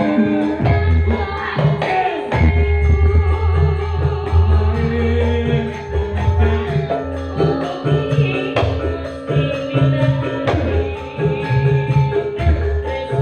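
Live Javanese Sragenan band music: held melodic notes over a steady, rhythmic drum beat, with jingling percussion.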